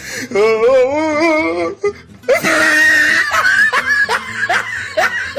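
A man laughing hysterically over music, starting with a long warbling laugh, then a loud shrieking burst about halfway, then short rising bursts of laughter about twice a second.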